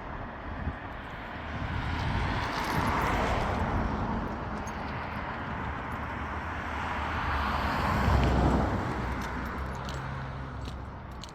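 Cars passing on the road, two of them: the traffic noise swells and fades around three seconds in and again around eight seconds in.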